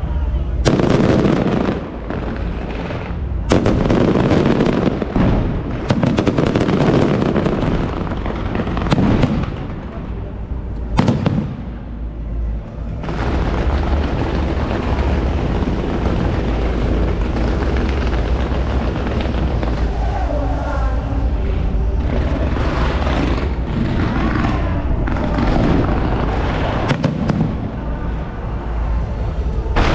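Fireworks going off in a rapid string of bangs and booms, densest in the first dozen seconds, then a steadier crackling wash with scattered bangs.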